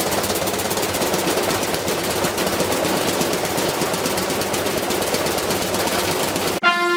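A steady, rapid rattling clatter of fast, even knocks, cut off suddenly near the end as music begins.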